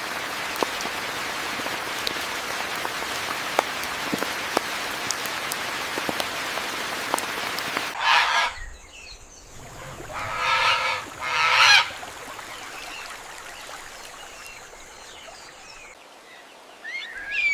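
Steady rain falling on broad leaves, with scattered sharp drips. About halfway the rain grows quieter and an animal gives three loud calls, the last two about a second apart.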